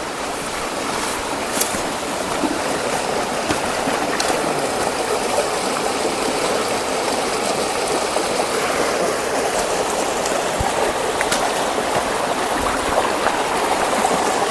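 Stream water running steadily, with a few light clicks over it.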